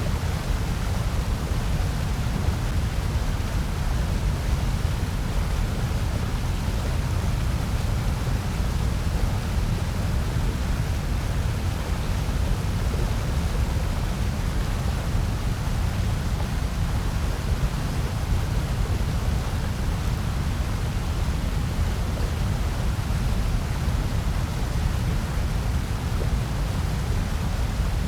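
Steady, unchanging white noise track: an even hiss with a strong deep rumble underneath, with no breaks or separate events.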